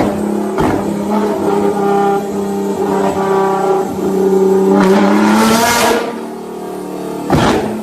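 Nissan GT-R's twin-turbo V6 held at high revs in a steady drone, with sharp exhaust pops near the start and near the end. About five seconds in comes a loud hissing rush as the revs fall.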